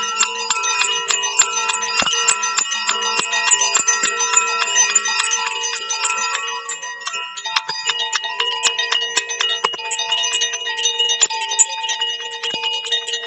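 Metallic bell-like tones struck rapidly and repeatedly, many pitches ringing on and overlapping, in a sound-healing session.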